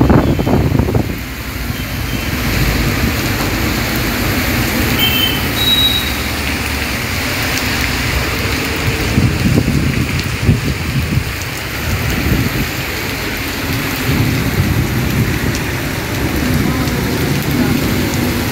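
Heavy rain pouring steadily onto a street, an even rush with a louder first second, with vehicles passing on the wet road.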